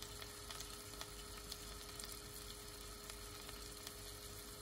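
Halved Brussels sprouts frying in oil in a saucepan: a quiet, steady sizzle with faint scattered crackles.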